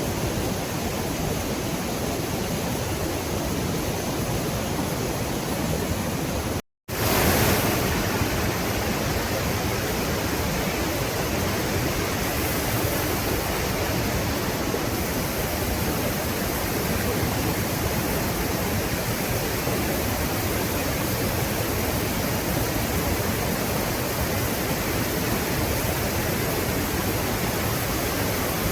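Steady rush of a waterfall and fast river water, an even hiss-and-roar with no change in level. The sound cuts out completely for an instant about seven seconds in.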